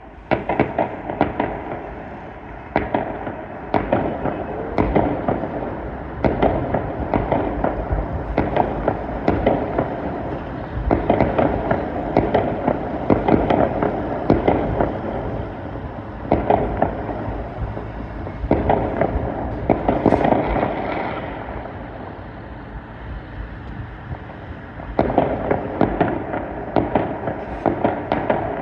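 Fireworks going off in rapid, crowded volleys of bangs and crackling, bunched into loud clusters with short lulls between them.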